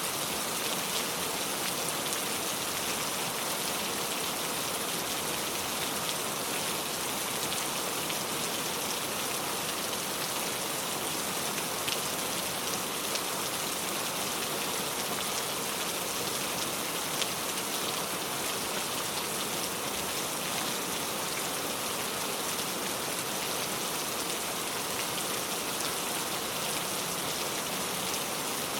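Steady rain falling, an even hiss of many fine drops with no pause or change.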